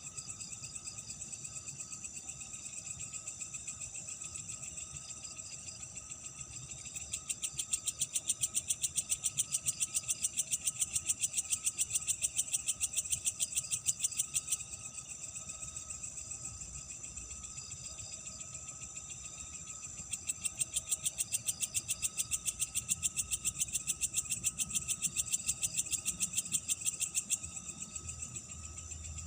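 Night insect chorus of crickets and similar insects, a steady high trilling. Twice a louder insect call, a rapid even pulsing, joins in for about seven seconds, about a quarter and about two-thirds of the way in.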